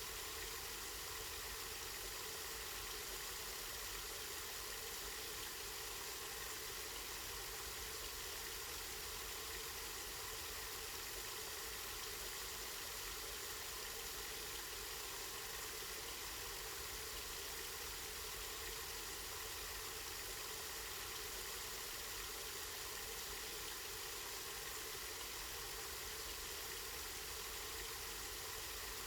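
Water from a spring running steadily, an even, unbroken hiss with a low rumble underneath.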